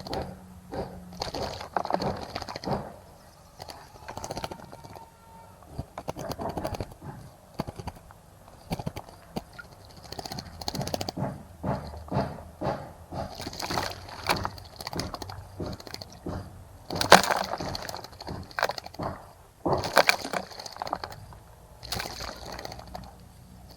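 Small birds bathing in a bird bath: irregular bouts of splashing as they flutter their wings in the water, with the loudest splashes about two-thirds of the way through.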